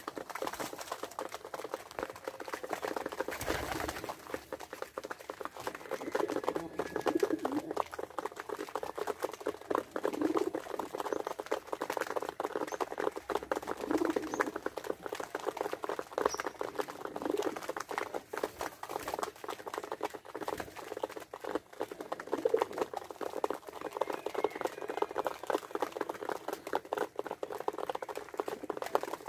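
Pigeons cooing in low calls every few seconds, over a constant dense pattering of small clicks and scratches.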